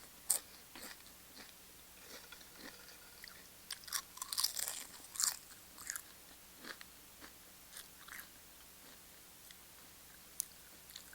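Tortilla chips crunching as they are bitten and chewed, in irregular crisp crunches, most of them clustered about four to five seconds in, then sparser chewing.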